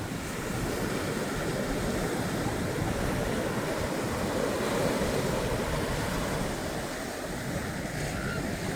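Gulf surf washing onto the beach in a steady wash, with wind rumbling on the microphone.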